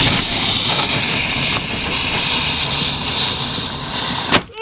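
A lit firework spewing with a loud, steady hiss that cuts off suddenly near the end.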